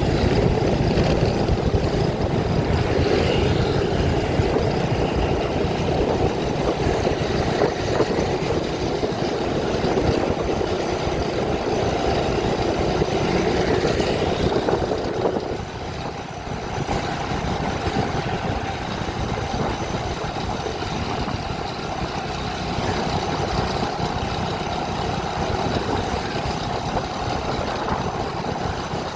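Vehicle driving along a road: a steady run of engine and road noise, easing off somewhat a little past halfway through.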